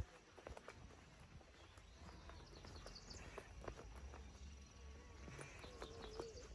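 Faint footsteps of someone walking on a path, irregular soft steps, with a few faint bird chirps about three seconds in.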